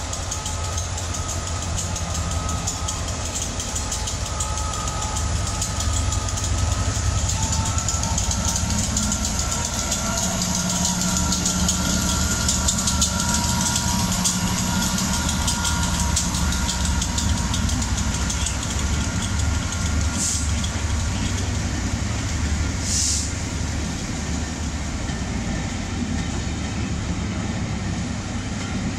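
Class 67 diesel locomotive 67003 (two-stroke GM diesel) running as it hauls its train slowly past, followed by the coaches rolling by with a steady low rumble and wheel noise. Two brief high-pitched sounds come about two-thirds of the way through.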